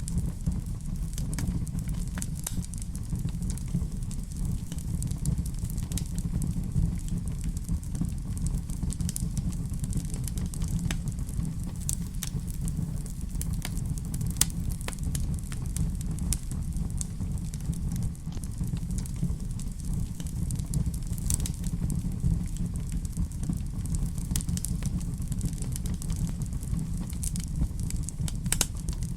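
Fireplace fire crackling: scattered sharp pops and snaps, irregular and close together, over a steady low rumble.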